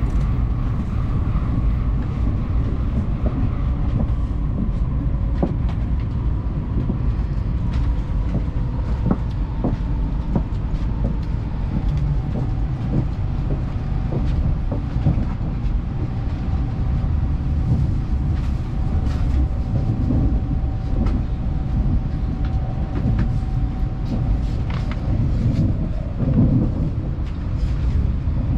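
Running noise inside an N700S Shinkansen passenger car: a steady low rumble of the train on the track, with a faint whine that falls slowly in pitch as the train slows, and scattered light clicks.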